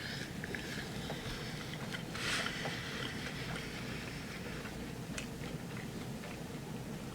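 A person eating from a rice bowl, chewing with faint utensil clicks over a steady low room hum, and one brief louder noise about two seconds in.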